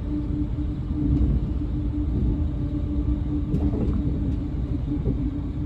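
Steady low rumble of a moving vehicle heard from inside, with a steady hum running over it.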